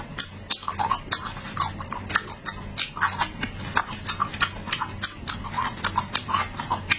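Close-miked chewing and lip-smacking of a person eating, with wet smacking clicks several times a second.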